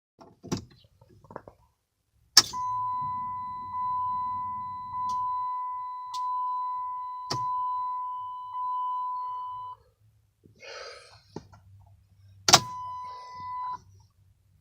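A car's electronic warning chime dinging repeatedly, a clear tone re-struck about every 1.2 seconds for roughly seven seconds. Sharp clicks come before it, then a rustle, and another click with a brief chime near the end. No engine or starter is heard.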